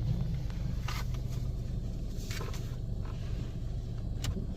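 Steady low rumble heard inside a car's cabin in an automatic wash bay, with a few light ticks and taps.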